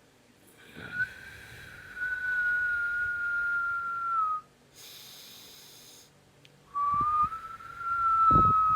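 A person blowing out a long, steady whistle-like tone through the teeth, a held 'S' in a breath-control exercise. It holds for about three and a half seconds, dips slightly at the end, breaks off, and starts again near the end.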